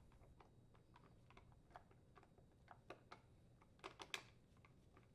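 Faint, irregular light clicks and taps of small parts being handled: the plastic hinge cover on the top of a refrigerator door being fitted and its screws driven in, with a few slightly louder clicks about three and four seconds in.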